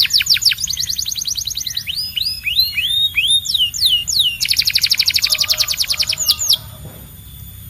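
Domestic canary singing: fast trills of rapidly repeated high notes, then a run of separate swooping whistled notes, about three a second, then another fast trill. The song stops about a second before the end.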